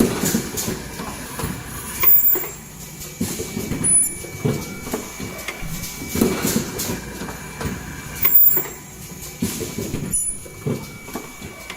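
Automatic N95 cup mask production machine running: continuous irregular mechanical clatter with sharp clicks every couple of seconds, over a steady high-pitched tone.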